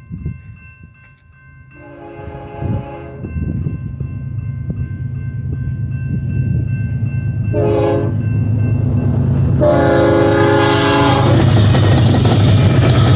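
Diesel locomotive air horn sounding three blasts, long, short, long, over the deep rumble of a BNSF light-engine consist of eleven GE and EMD diesel locomotives, the rumble growing steadily louder as the locomotives approach and pass.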